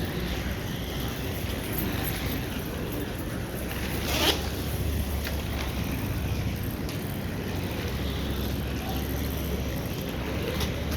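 Roller skate wheels rolling over a hard floor: a steady rumble, with one sharp click a little over four seconds in.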